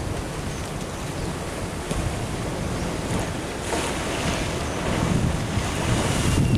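Ocean surf washing in at the sea wall, with wind buffeting the microphone; the wash swells a little past halfway through.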